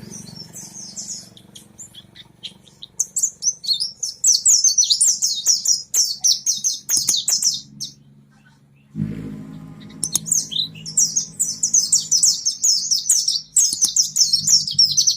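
Mountain white-eye (pleci monty) in full song: a rapid, high-pitched chattering warble, in two long bursts with a short pause between.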